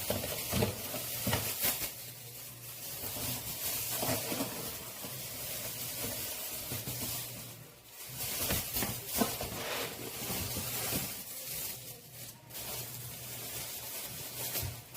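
Food sizzling in a frying pan, with a few clicks of a utensil against the pan.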